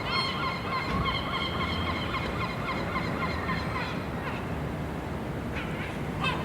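Gulls calling: long drawn-out cries, several overlapping, in the first seconds, then short rising calls near the end, over a steady hiss of background noise.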